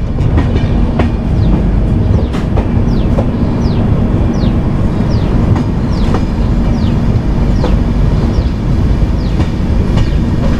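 Kirandul Express passenger train running slowly on the climb, heard from its rear viewing deck: a steady low rumble of wheels on rail with scattered clicks. From about two and a half seconds in, short high falling squeaks repeat roughly every two-thirds of a second.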